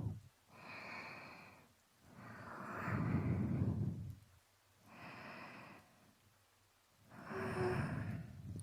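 Slow, audible breaths close to a binaural microphone, about four long sighing breaths in and out with short pauses between them.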